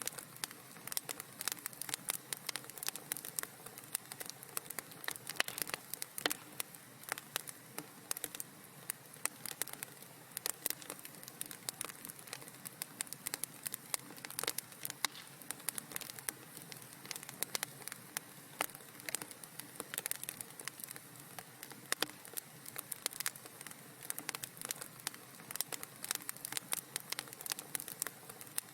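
Wood fire in a fireplace crackling steadily, with many quick, irregular pops and snaps over a soft hiss.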